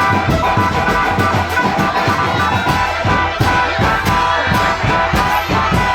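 Marching drum band playing: rapid drum strokes under a steady melody line.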